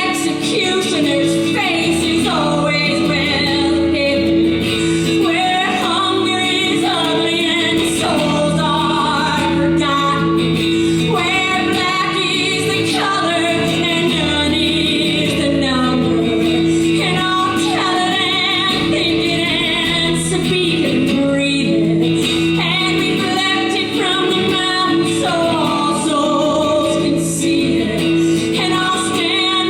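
Female voice singing a folk song over a steady guitar accompaniment, the sung lines rising and falling without a break.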